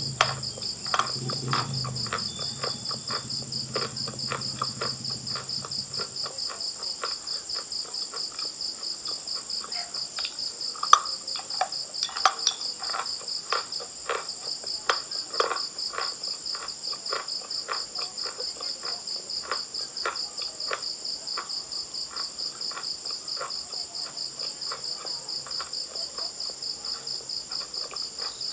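Insects, likely crickets, chirping in a steady, rapid, high-pitched pulse. Scattered sharp clicks and crunches of someone eating chalk sound over it, the loudest about eleven seconds in.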